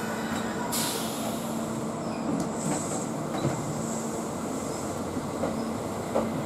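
Kintetsu limited express electric train running through the station, a steady rumble of wheels on rail with a faint steady hum. A few sharp clicks come near the end.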